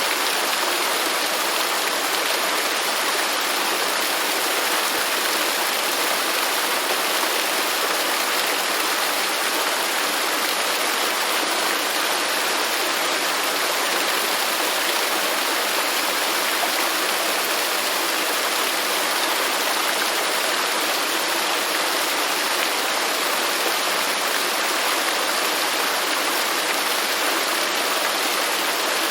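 Waterfall: falling water splashing in a steady, even rush with no changes.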